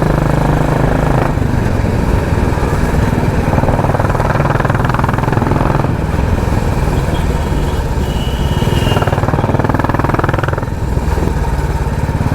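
Royal Enfield Classic 350's single-cylinder engine running through a loud aftermarket 'helicopter' exhaust while riding, its note changing a few times as the throttle is worked.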